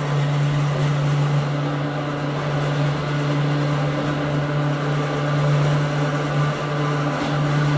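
Interior running sound of a Hakone Tozan Railway Moha 1 class electric car, which has nose-suspended traction motors: a steady low hum with a fainter higher overtone over rumbling running noise.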